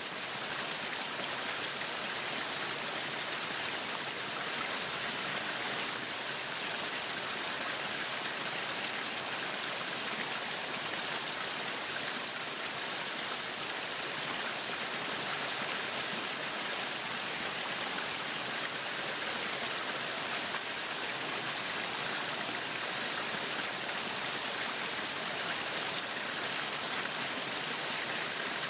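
Meat sizzling on a yakiniku grill, a steady, even sizzle with no let-up.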